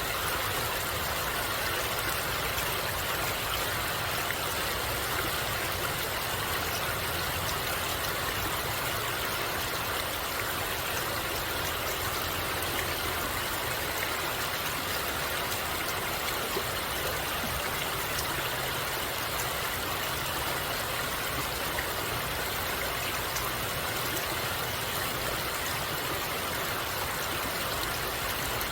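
Flowing water rushing steadily, an even continuous hiss with no change.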